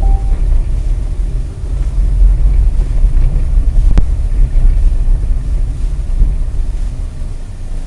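Steady low rumble of a moving car, road and engine noise picked up inside the cabin by a dash cam microphone, with a single sharp click about four seconds in.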